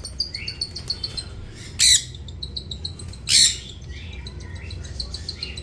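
Baby lutino cockatiel begging while being hand-fed: a fast run of short, high, raspy chirps. Two loud harsh squawks cut in about two and three and a half seconds in.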